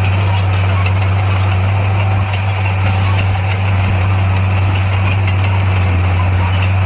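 Heavy diesel engine of earthmoving machinery running steadily, a constant low drone with no change in speed.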